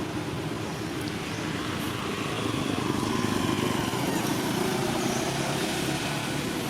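A steady engine-like drone that grows a little louder about two seconds in.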